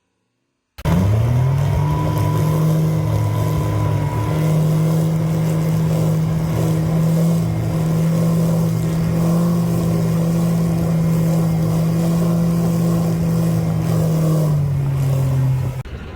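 Motorboat engine running steadily at speed, cutting in abruptly about a second in; its pitch drops slightly near the end just before it stops.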